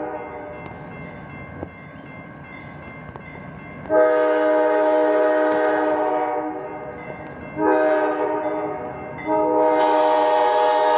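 Horn of a B23-7R diesel locomotive sounding a steady chord: a long blast about four seconds in, a short one near eight seconds, then another long one that carries on. Heard together with the long blast just before, this is the long–long–short–long grade-crossing signal.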